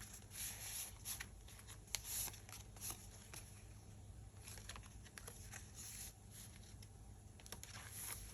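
Faint rustling and light tapping of paper and card pages being handled and turned in a handmade junk journal, in short scattered bursts.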